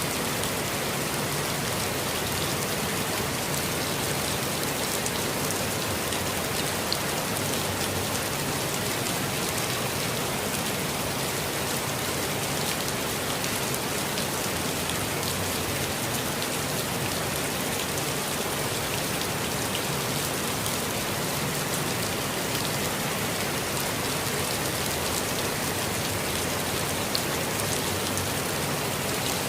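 Steady, gentle rainfall, an even hiss with scattered individual drop ticks.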